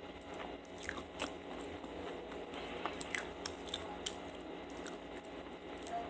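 A person chewing soft dried mango, with chewy mouth sounds and irregular sharp clicks and smacks, a few louder ones about three to four seconds in.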